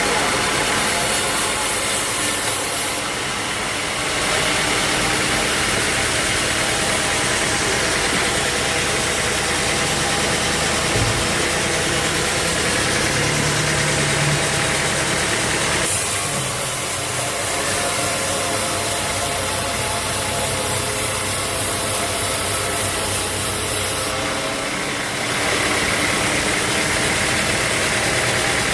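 Sawmill machinery running steadily, a dense machine hum with many steady tones; the level dips briefly about three seconds in, around sixteen seconds and around twenty-four seconds in.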